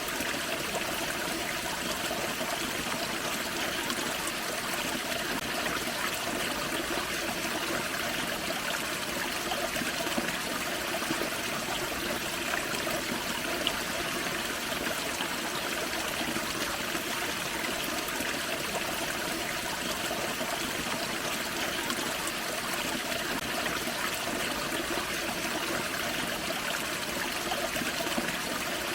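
Small waterfall on a forest creek: water running and splashing steadily, an even rushing and trickling with no change.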